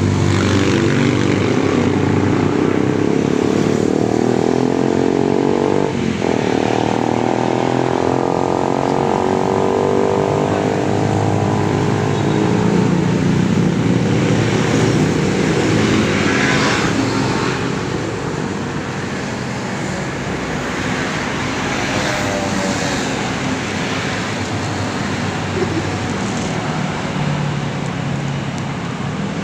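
Motorbike engine running, its note slowly rising and falling as the throttle changes, over steady road noise.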